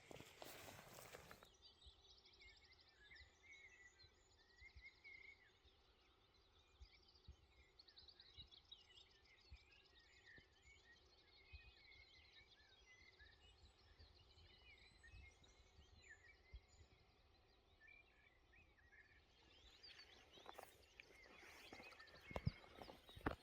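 Faint dawn-chorus birdsong: many small birds giving short chirps and trills over a low hiss, with a few sharp clicks and knocks near the end.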